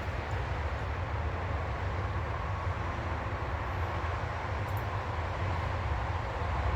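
Steady outdoor background noise: a low rumble with a broad hiss over it. A faint short high whistle comes about halfway through.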